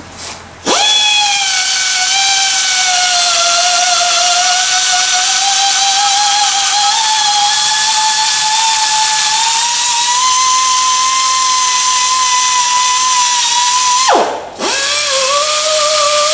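Power grinder spinning up and running with a loud, high whine that drifts in pitch as it works on a small welded steel part. Near the end the whine drops sharply, as if the tool winds down, then spins straight back up.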